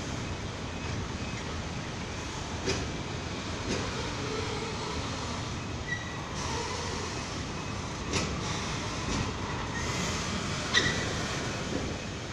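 Freight train of enclosed car-carrier wagons rolling past at a level crossing: a continuous wheel-and-rail rumble with occasional sharp knocks and a couple of short high squeals.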